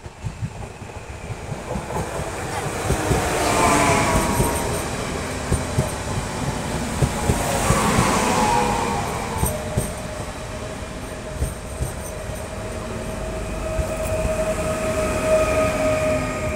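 Passenger multiple-unit train passing close by at speed, growing loud as it approaches. Its wheels knock over rail joints throughout, and a whine falls in pitch twice as the powered parts go by. A steady whine holds through the second half.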